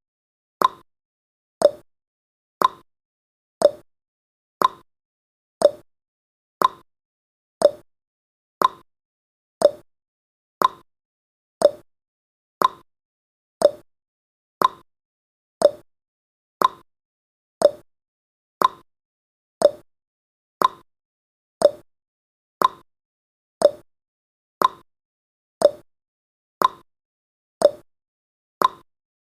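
Clock tick-tock sound effect of a countdown timer: one short tick a second, alternating higher and lower in pitch.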